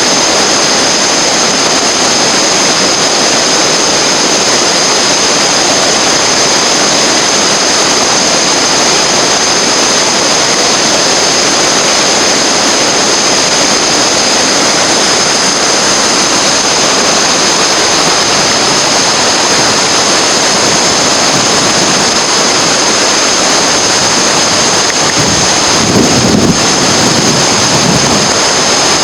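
Steady loud rush of whitewater in a river rapid. Near the end there is a brief low rumble.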